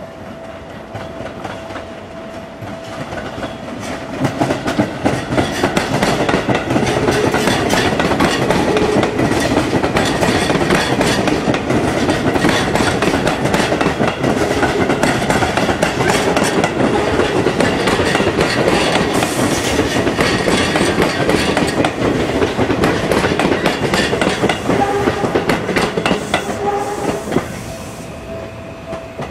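Seibu 001-series Laview limited express electric train passing close by, its wheels clicking rapidly over the rail joints. It builds up over the first few seconds, stays loud for about twenty seconds, and falls away near the end.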